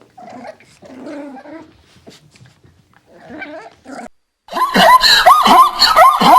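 Animal calls: low, broken growls and whimpers, then after a short gap about four seconds in, a loud run of quick rising-and-falling squeals, about three a second.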